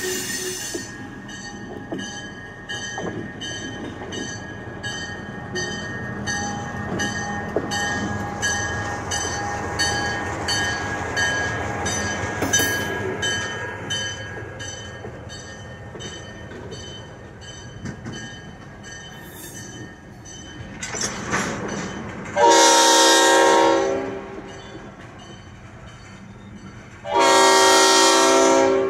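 Rail tank cars rolling slowly past with a low rumble and a steady high tone, over a fast, even ringing that fades out about two-thirds of the way through. Near the end, a diesel locomotive horn sounds two long blasts, the loudest sounds here.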